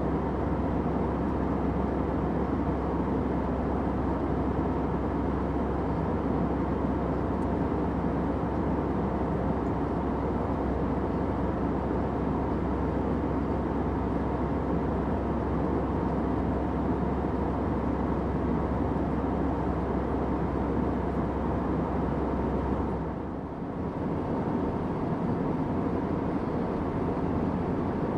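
Steady airplane cabin noise: an even, unbroken rush of engine and airflow sound, mostly low and mid in pitch. It dips briefly in level about four-fifths of the way through, and the deepest rumble is weaker after that.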